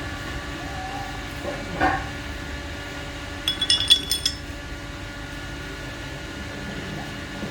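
Small metal pieces clinking together as they are handled: a quick run of sharp, ringing clinks about three and a half seconds in, after a single knock near two seconds, over a steady background hum.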